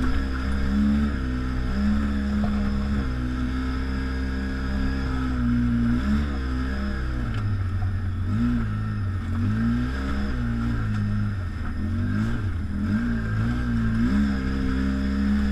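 ATV engine running under changing throttle, its pitch rising and falling repeatedly as it speeds up and eases off, with a steady high whine over it.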